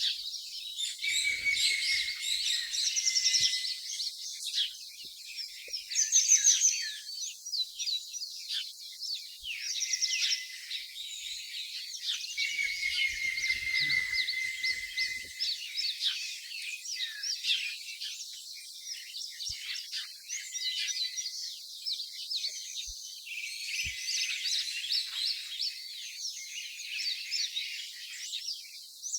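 Several birds chirping and twittering at once in a dense, continuous chorus of short high calls, with a few longer gliding notes.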